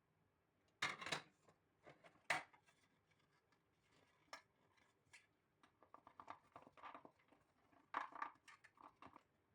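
Kitchen handling noises: short clicks and clattering knocks of dishes and utensils being handled, in scattered bursts, the loudest about a second in and a cluster near the end.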